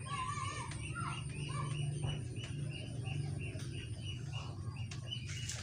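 Small birds chirping, a short high chirp repeated about three to four times a second, with a few lower calls in the first two seconds and a steady low hum underneath. A couple of light clicks near the end.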